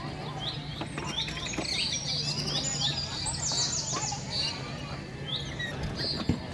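Several birds chirping in short, repeated high calls, over a steady low hum, with a single knock near the end.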